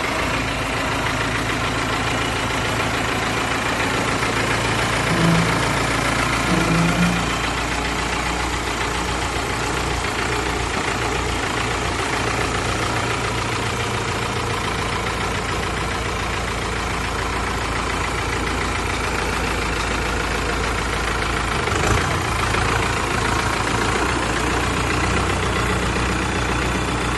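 Fiat tractor engine running steadily, with two short louder blips about five and seven seconds in and another brief one about twenty-two seconds in.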